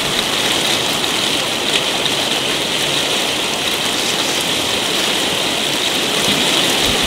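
Steady, even hiss of rain falling on garden foliage and grass.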